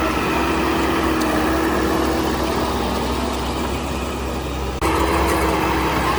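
Heavy construction machine's diesel engine running steadily, with a low rumble and a constant whine over it. The sound drops slightly and then jumps back up abruptly about five seconds in.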